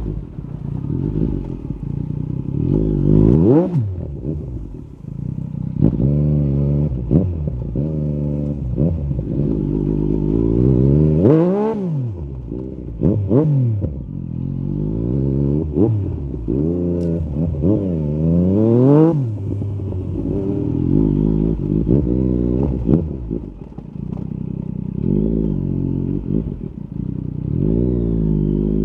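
Yamaha MT-09 SP's three-cylinder engine through an Akrapovic carbon Racing-Line exhaust with the dB killer removed, revving up and dropping back again and again as the bike accelerates and backs off.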